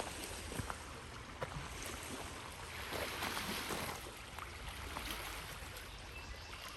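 Small waves washing against a rocky shore, a steady rush of water that swells about three seconds in, with a few faint clicks.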